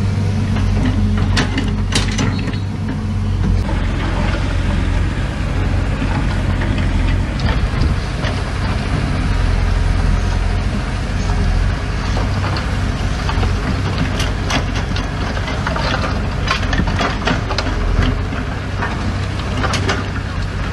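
Heavy diesel construction machine running steadily, with scattered metallic clanks and rattles over the engine.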